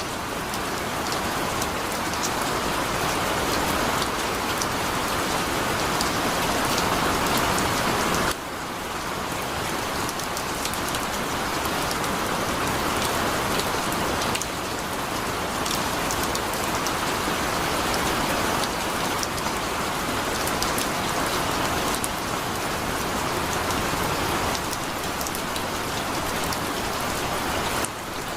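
Heavy rain falling in a steady, dense hiss, with a few sudden small shifts in loudness.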